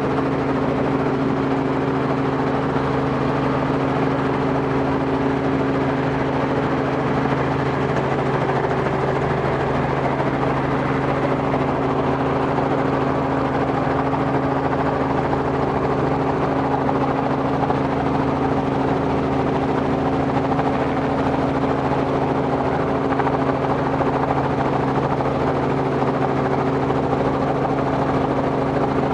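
Robinson R44 helicopter running steadily, its Lycoming six-cylinder piston engine and rotor making a constant low drone with a few steady low tones.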